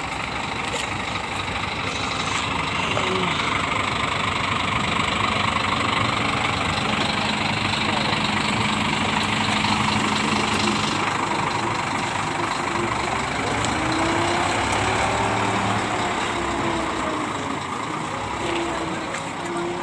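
Diesel engine of a Scania K410IB bus running steadily, with a sustained tone in the middle and some rising and falling tones near the end.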